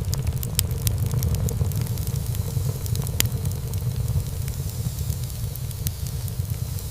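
Wood fire burning in a fireplace: a steady low rumble of flame with scattered sharp crackles and pops of burning wood, one louder pop about three seconds in.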